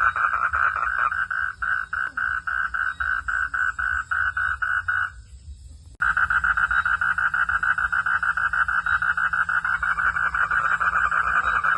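Frog calling in a fast, even train of pulses, about five a second, breaking off about five seconds in and starting again abruptly a second later. A steady low hum runs underneath.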